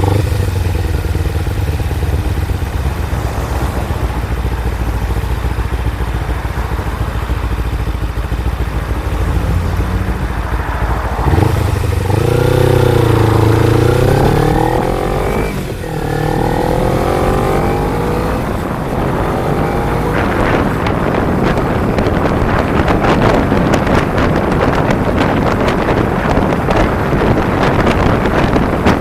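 Kawasaki Ninja 250 motorcycle engine running under way, its pitch rising and falling with throttle and a brief dip near the middle like a gear change. In the second half, wind buffeting on the microphone grows loud and covers the engine.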